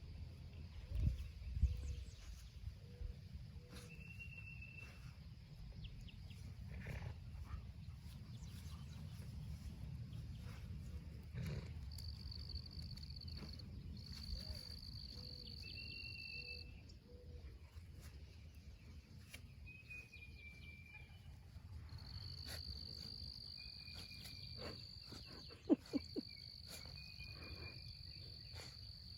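An unseen critter's calls: four long, steady, high-pitched buzzes lasting one to two seconds each, over short chirps repeating every few seconds. A few sharp knocks and a low outdoor rumble sit underneath.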